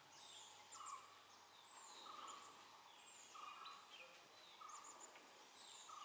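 Faint forest ambience: a bird repeats a short call note about once a second, with fainter high calls behind it.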